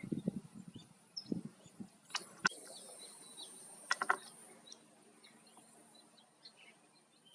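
Small birds chirping with scattered short calls over a steady high hiss. Low thumps come in the first two seconds, and sharp clicks come at about two and a half and four seconds in.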